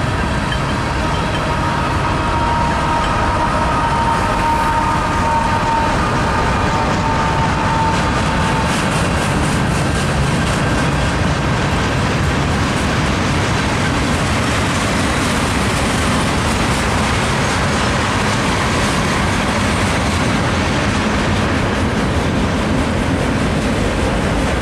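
Freight cars of a CN freight train rolling past at steady speed: the continuous rumble and clatter of steel wheels on rail. A high squeal from the wheels rings over the first eight seconds or so, then fades out.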